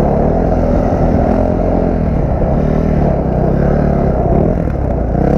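Dirt bike engine running under load, its pitch rising and falling as the throttle is worked.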